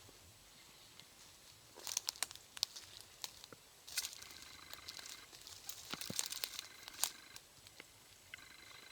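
Footsteps crunching and snapping through dry leaves, twigs and brush, in irregular crackles and rustles that cluster in the middle. A faint steady tone starts near the end.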